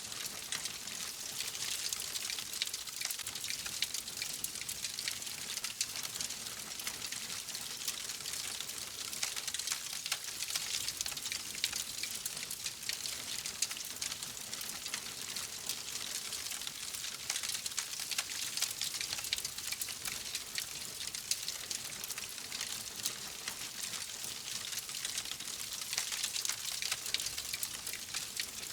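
Fire in a fireplace crackling steadily: a dense hiss full of small, quick snaps and pops.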